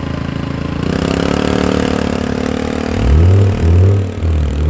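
A performance car's engine idling, then revved in about three loud, deep surges near the end.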